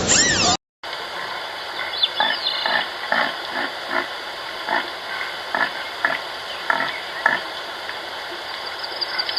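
An animal making a run of about a dozen short, clipped calls, two or three a second, beginning about two seconds in. Before that, loud music with gliding whistles cuts off abruptly in the first half second.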